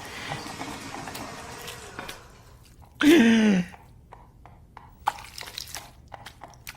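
A person's voice making one short wordless sound that falls in pitch about three seconds in. Faint scattered clicks and taps follow.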